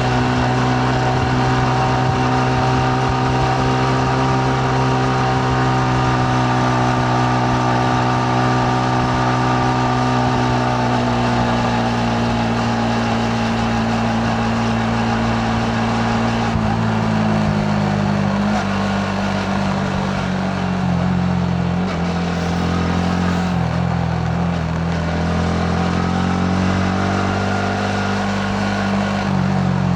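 Yamaha MT-15's single-cylinder engine running under way at a steady pitch. Its note eases down about halfway through, then rises and falls with throttle changes.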